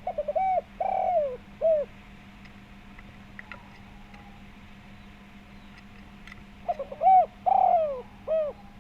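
Spotted dove cooing: two calls about six seconds apart. Each call is a few quick short notes, then a longer coo that falls in pitch, then a short closing note.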